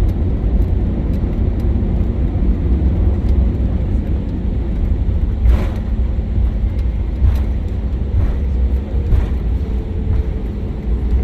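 Cabin noise inside an Airbus A320neo rolling on the ground after landing: a steady low rumble from the engines and wheels, with a faint steady hum coming in about halfway through and a few short knocks as the aircraft rolls over bumps.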